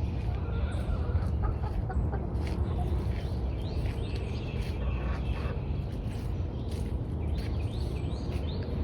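Backyard hens clucking in short, scattered calls over a steady low rumble on the microphone.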